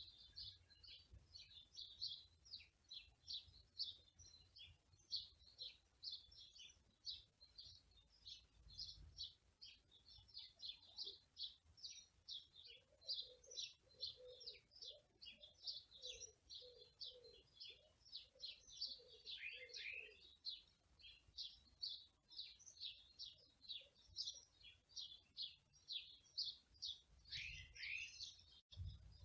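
Small songbirds chirping rapidly and continuously, several high chirps a second, with a lower repeated call joining for several seconds in the middle.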